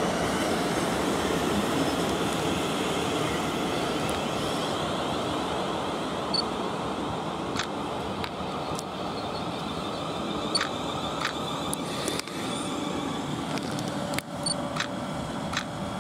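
South Western Railway Class 450 electric multiple unit running along the track, a steady rumble that slowly fades as the train draws away, with scattered sharp clicks in the second half.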